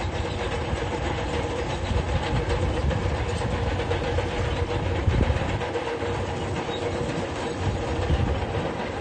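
Diesel engine of a tracked earthmover running steadily under a dense clatter of steel crawler tracks.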